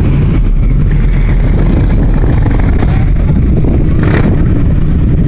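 Loud, steady rumble of car engines and exhaust, with a brief hiss about four seconds in.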